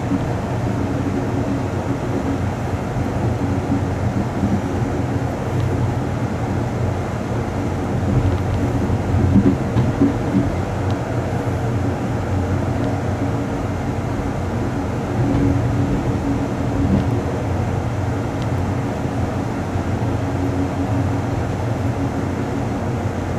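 Running noise of the Amtrak Coast Starlight passenger train, heard from its rear end: a steady low rumble of wheels on rail, louder for a moment about nine seconds in and again around sixteen seconds.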